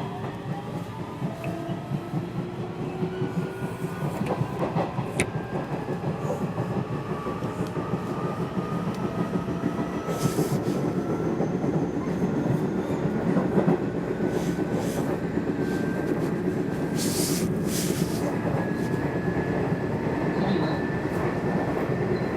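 Electric train accelerating: the motor whine climbs slowly in pitch over the rumble of the wheels on the rails, growing louder, with scattered clicks from the wheels crossing rail joints.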